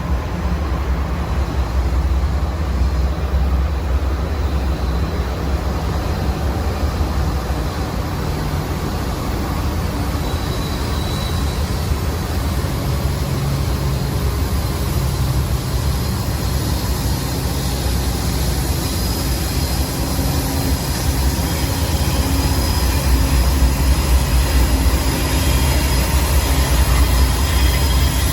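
Norfolk Southern train's diesel locomotives and cars rumbling steadily as the train descends the grade. The sound grows a little louder over the last several seconds, with faint high-pitched tones near the end.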